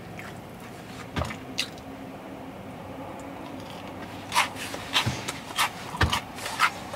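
Close-miked chewing and lip-smacking on a crispy mini donut: a couple of soft mouth clicks about a second in, then a quick run of wet clicks and smacks from about four seconds on.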